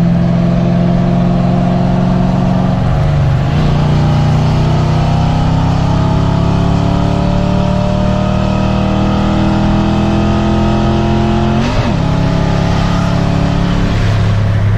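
Car engine pulling hard under acceleration, its pitch climbing steadily through each gear, with two upshifts where the pitch drops: one about three seconds in and one near the end.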